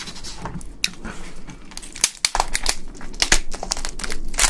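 Close, loud crinkling and crackling: a dense run of irregular sharp clicks, busiest in the second half.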